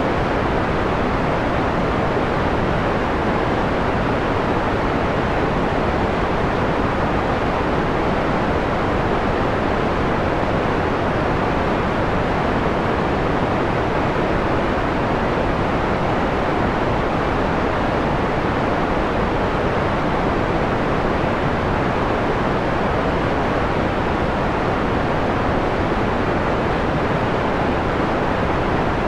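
Steady synthetic white noise filtered to a mellow, darker tone, with its highs rolled off above a few kilohertz, like a soft hiss or rush at an even level.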